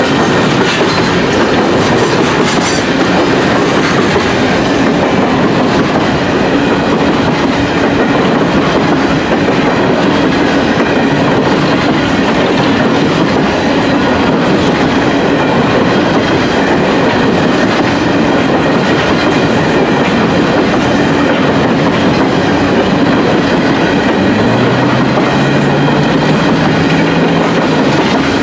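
Canadian Pacific coal train's hopper cars rolling steadily past, wheels clattering on the rails. Near the end a locomotive's engine adds a low, steady hum.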